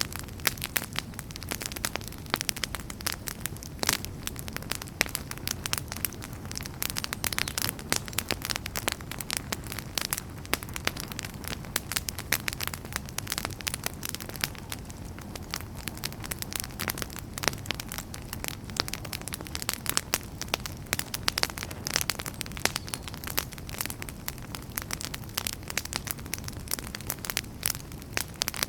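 Wood logs burning in a fireplace: dense, irregular crackles and pops over a low steady rumble of flame.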